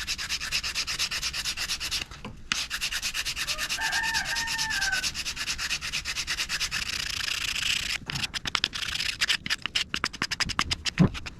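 Sandpaper rubbed back and forth in quick, even strokes over the wooden chair rail, smoothing a glued dowel repair joint. The strokes pause briefly about two seconds in and turn shorter and stop-start near the end.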